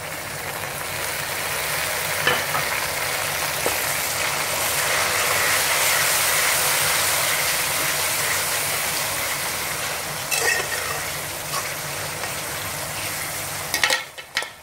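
Chopped tomatoes and green chillies sizzling as they fry in hot oil with browned onions and garlic in a metal karahi, stirred with a steel spoon that scrapes the pan now and then. The sizzle swells over the first few seconds and then slowly eases, with a few knocks of the spoon near the end.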